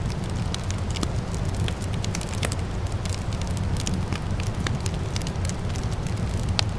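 Wood fire in a fireplace crackling, with frequent small pops over a steady low rumble, and one sharper pop near the end.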